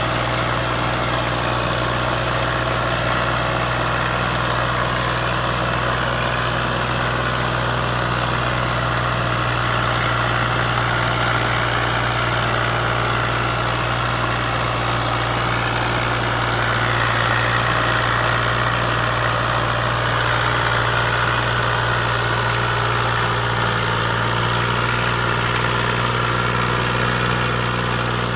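Tractor diesel engine running steadily at an even speed, a continuous drone with no breaks.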